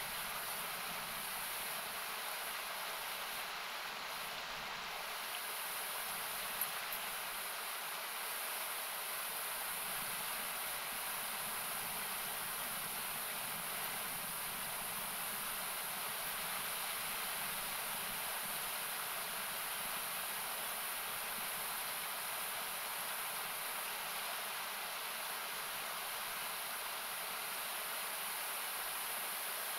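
Steady, hiss-like rush of river water, with one sharp crackle from the campfire about six and a half seconds in.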